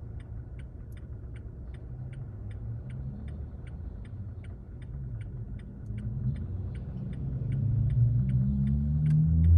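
Car running on the road, heard from inside the cabin, with a turn-signal indicator clicking steadily about three times a second. Over the last few seconds the engine note rises and gets louder as the car speeds up.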